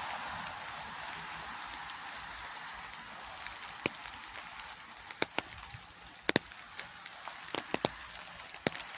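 Steady rain hiss, with scattered sharp taps of single drops hitting a nearby surface, more of them in the second half.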